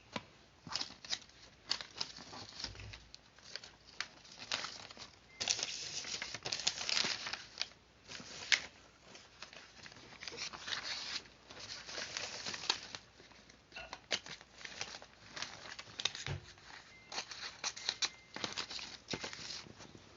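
Paper being cut and handled: irregular sharp clicks with stretches of rustling paper.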